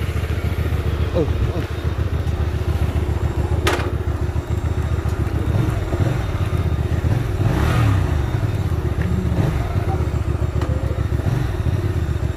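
Small motorcycle engine idling steadily, with a single sharp click about four seconds in.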